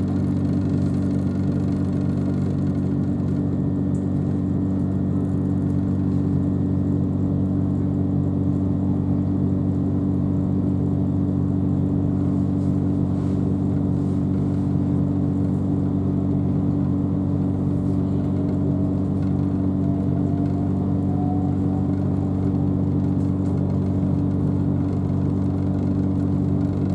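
Steady low hum inside the carriage of a Class 377 Electrostar electric train, unchanging in level, with a faint rising whine about two-thirds of the way through.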